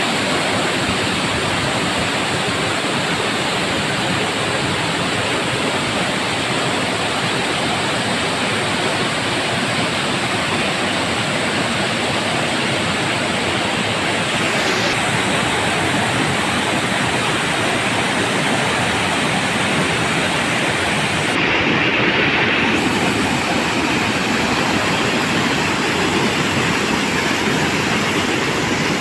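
Waterfall rushing steadily, a dense, even wash of water noise, briefly a little louder about three-quarters of the way through.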